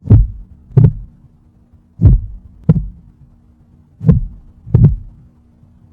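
Heartbeat: three slow double thumps, each a lub-dub pair about two seconds apart, over a faint steady hum.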